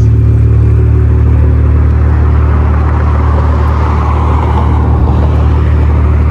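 BMW M340i's turbocharged straight-six running at a steady speed, a constant low drone, with a broad rushing swell partway through.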